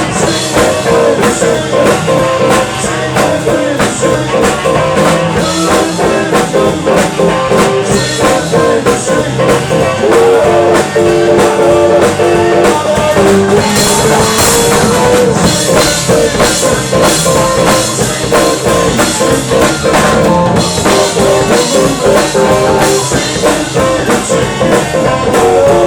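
A live band playing blues-rock with electric guitar and a drum kit keeping a steady beat.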